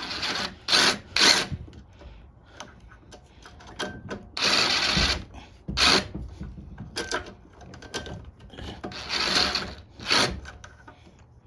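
Metal parts and tools clattering and scraping in irregular bursts of a second or so, during hand work refitting a lawn mower carburetor.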